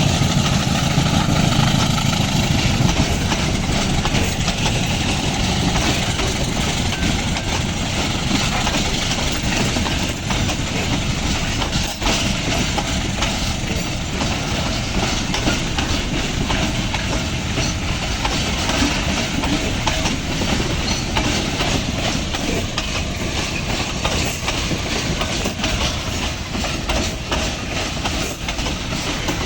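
Loaded ore freight train passing: a diesel locomotive engine is loudest for the first few seconds, then the wagons roll by with a steady rumble and a clatter of wheels over the rails.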